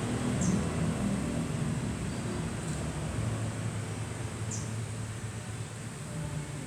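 Steady low rumble with three brief, high, falling chirps from small birds, spaced about two seconds apart.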